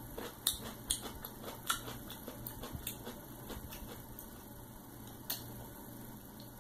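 Mouth sounds of someone biting and chewing a sauce-dipped pickle close to the microphone: a series of sharp crisp crunches through the first three seconds, thinning out into quieter chewing, with one louder click about five seconds in.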